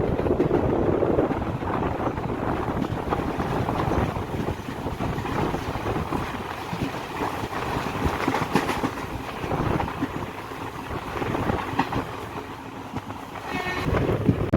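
Passenger train running along the track: a steady rumble and rattle with the clack of wheels over rail joints. A brief high tone sounds near the end.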